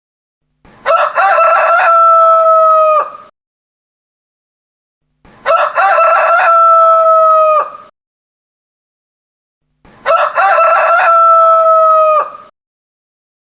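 A rooster crowing three times, about every four and a half seconds. Each crow lasts about two and a half seconds and ends in a long held note that drops off sharply.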